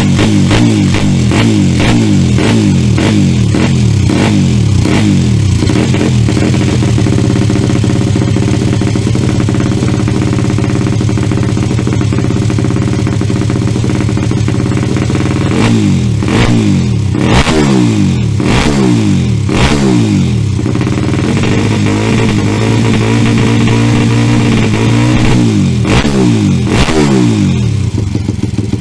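Honda Monkey Gorilla's 49 cc four-stroke single-cylinder engine running at a steady idle, then revved up and let fall back several times in the second half.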